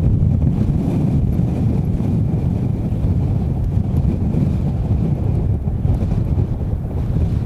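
Strong gusty wind buffeting the microphone, a heavy low rumble that rises and falls with the gusts, with a faint steady high tone beneath it.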